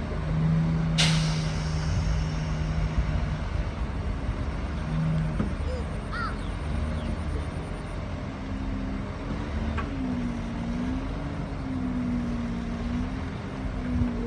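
Heavy diesel engine of earthmoving equipment running steadily, its pitch rising and falling a little in the second half. A short sharp air hiss comes about a second in.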